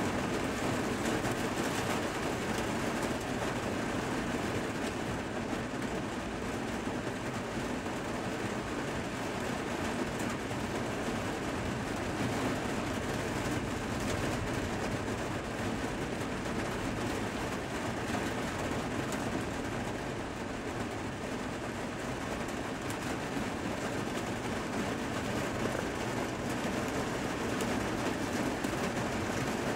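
Heavy rain pouring steadily in a thunderstorm: an even rushing noise that holds at the same level.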